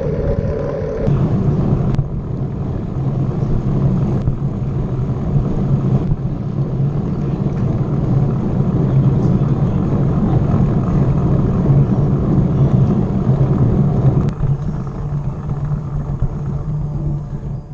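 Steady low rumbling noise of riding a bicycle on the move, with a few sharp clicks and rattles; it eases slightly near the end.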